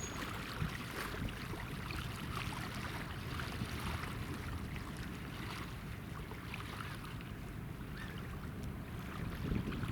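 Buoy-tender motor ship running: a steady low engine rumble under the wash and splash of water, with some wind noise.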